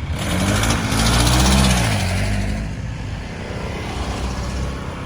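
A motor vehicle passing close by: its engine and tyre noise swell to a peak about a second and a half in, the engine pitch dropping as it goes past, then fade into steady road traffic noise.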